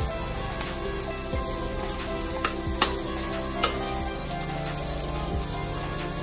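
Chopped onions sizzling in a metal wok as a wooden spatula stirs them, with a few sharp knocks of the spatula against the pan in the middle.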